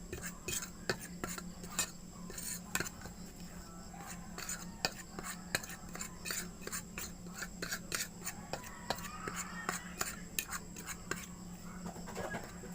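Utensil stirring and clinking against a bowl or dish: many quick, irregular clicks and scrapes over a steady low hum.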